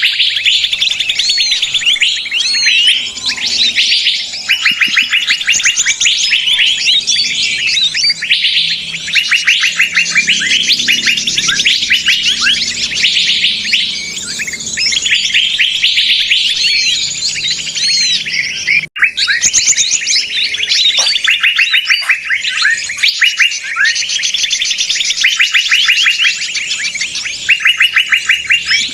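Bird-lure recording of a noisy flock of small birds: many birds chattering and calling at once in dense, rapid chirping trills, a commotion used to draw other small birds in. The chorus breaks off for an instant about nineteen seconds in.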